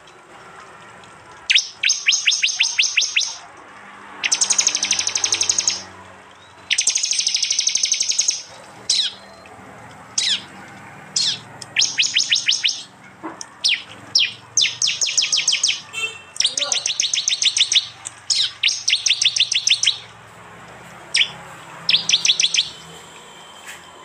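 Prenjak (prinia) song of the kind used to train cage birds: repeated loud bursts, each a second or two long, of rapid sharp 'shot' notes at about seven a second, high-pitched, with single short notes between the bursts.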